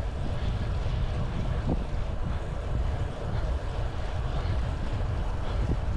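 Steady wind rush buffeting the microphone of a bicycle moving at speed, mixed with road noise and no clear pitched sound.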